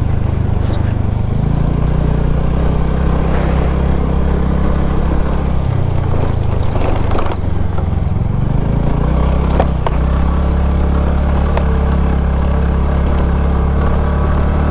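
TVS Ntorq 125 scooter's engine running continuously under a rider on a rough track, its low hum shifting a few times with the throttle, with a few sharp clicks from the ride in the second half.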